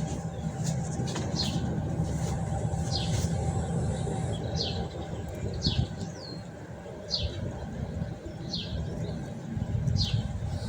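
A small bird repeating a short call, a quick falling whistle about seven times at even spacing, over the low rumble of wind on the microphone.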